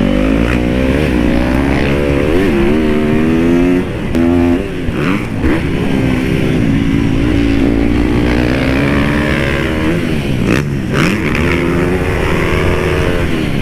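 Dirt bike engine riding hard on a motocross track, its pitch rising and falling over and over as the throttle is opened and rolled off through the gears.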